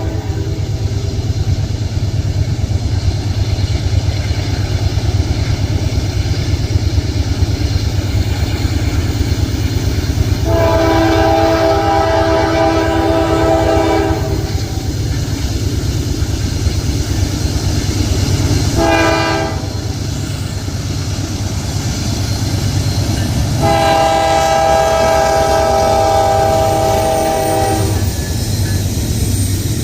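Multi-note air horn of a GE Dash 9 freight locomotive sounding the grade-crossing signal: the tail of a long blast at the start, a second long blast about ten seconds in, a short one near nineteen seconds and a final long one. Under it the diesel engines and freight train rumble steadily as the train approaches and passes.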